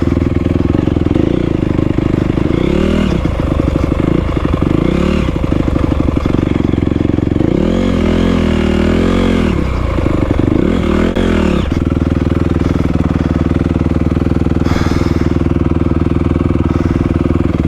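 Honda CRF250R dirt bike's single-cylinder four-stroke engine running steadily, with the revs rising and falling briefly a few times as the throttle is worked, most around 8 to 9 seconds in.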